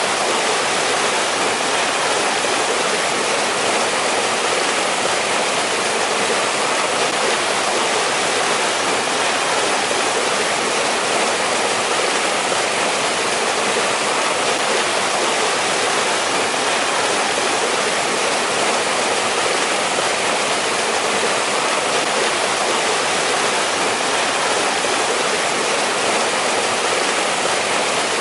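Mountain stream water running steadily over rocks, an even rushing with no breaks.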